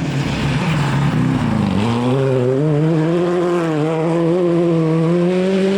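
Rally car engine at high revs: its pitch dips about two seconds in, then climbs and holds high as the car comes along the stage, with road noise under it.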